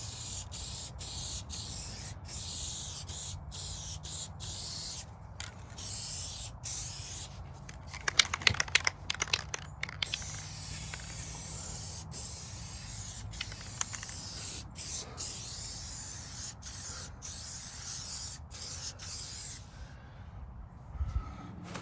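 Aerosol spray paint can spraying in a run of hissing bursts with short breaks between them, with a brief rattle of sharp clicks about eight seconds in. The spraying stops near the end.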